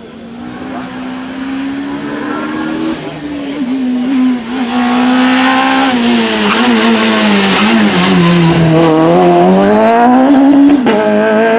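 Rally car engine growing louder as the car approaches at speed. Its revs sag about eight to nine seconds in, then climb sharply again under acceleration, with a single sharp crack shortly before the end.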